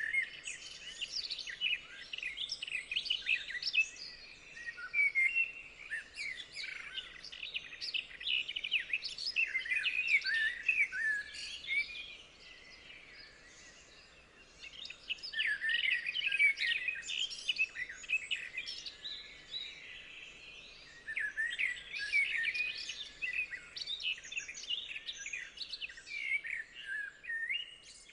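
Songbirds singing, a busy mix of quick chirps and trills in bouts, with two short lulls partway through.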